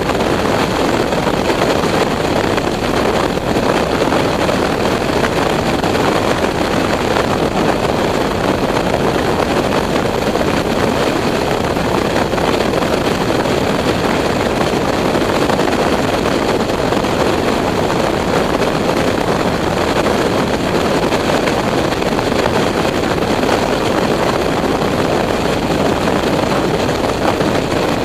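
Motorcycle riding at a steady speed: a constant rush of wind and road noise with the engine underneath, unchanging throughout.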